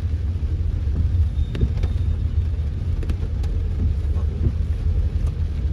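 Steady low rumble of a car driving, with a few faint ticks.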